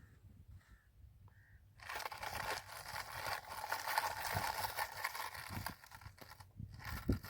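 Gritty scraping and crunching of sand and soil being shifted, starting about two seconds in and carrying on with a short break near the end.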